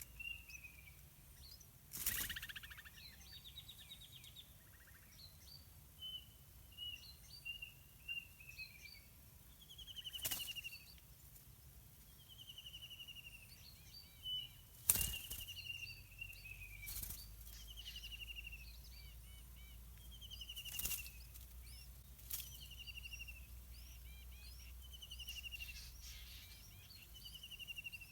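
Birds calling: a short buzzy note falling in pitch, repeated about every one to two seconds, among small high chirps. About half a dozen brief rushing noises break in.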